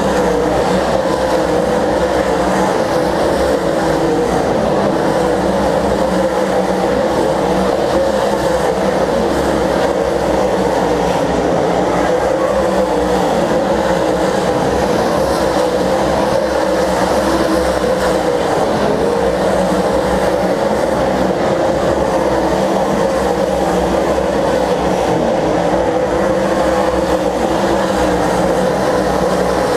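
Stock car engines running together in steady, unbroken engine noise as a field of race cars circles the track.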